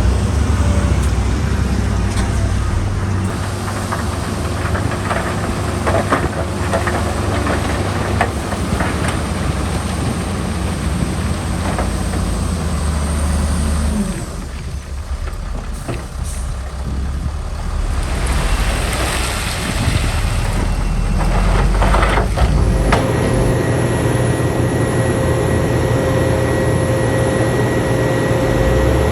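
Heavy diesel earthmoving machinery, dump trucks and a bulldozer, running under load with a deep engine drone. The drone eases for a few seconds around the middle, then picks up again, and a steady high whine joins it for the last several seconds.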